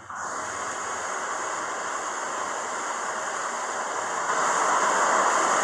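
A steady hiss of noise with no voices, growing a little louder about four seconds in.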